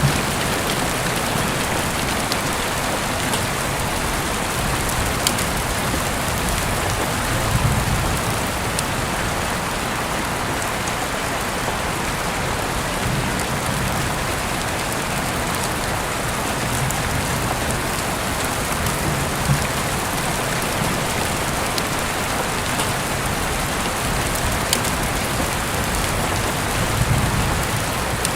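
Steady rain falling on a surface, an even hiss with scattered sharp drip-like ticks. A low rumble swells briefly twice, about eight seconds in and again near the end.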